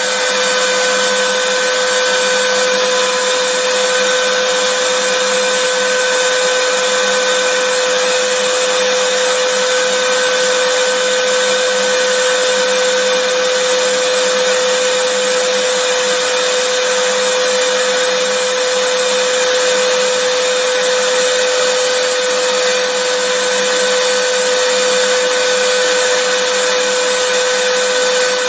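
Vacuum cleaner running steadily, a constant motor whine over an even rushing of air, with no change in pitch or level.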